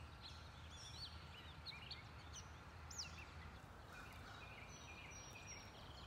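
Faint outdoor ambience with small birds giving scattered short chirps and high whistles, over a low steady hum.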